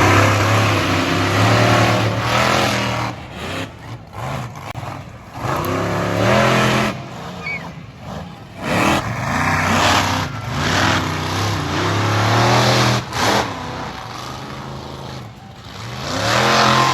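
Monster truck engine revving hard in repeated surges, its pitch climbing and dropping five or six times.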